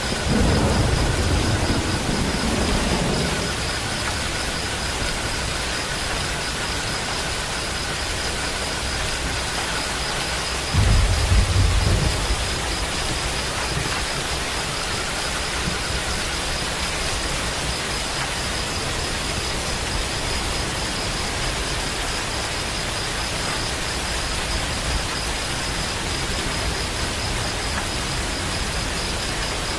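Steady heavy rain with thunder: a low rumble at the start lasting about three seconds, and a second, shorter rumble about eleven seconds in.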